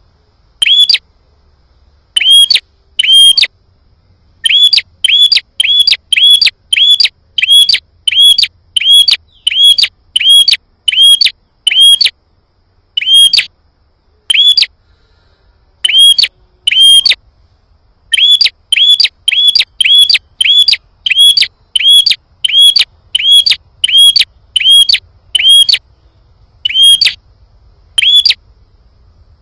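Prinia (prenjak) calling loudly as a lure recording: a long string of short, sharp, high chirps, about two a second, in runs broken by brief pauses.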